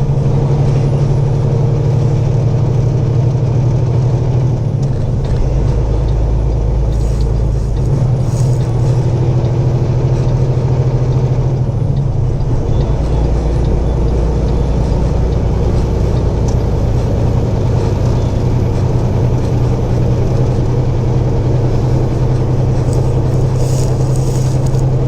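Inside a semi truck's cab while driving: the steady low drone of the diesel engine and road noise. A deeper rumble drops out and comes back a couple of times.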